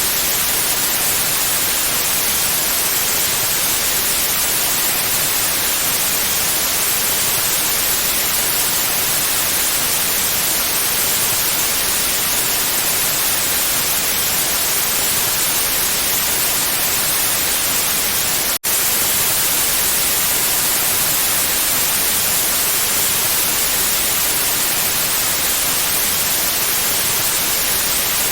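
Steady pure white noise: an even, full hiss that is brightest in the treble. It cuts out for an instant about two-thirds of the way through, then carries on unchanged.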